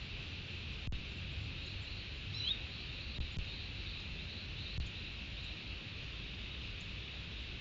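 Tropical forest ambience: a steady high insect chorus over a low rumble, with a short downward-sliding bird call about two and a half seconds in and a few faint chirps.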